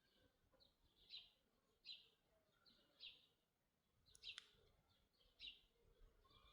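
Faint, high chirps of a small bird, repeated about once a second, with one sharp click about four seconds in.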